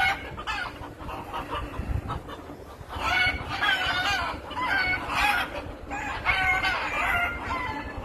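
Chickens, roosters and a hen, clucking and calling, with louder runs of calls from about three seconds in.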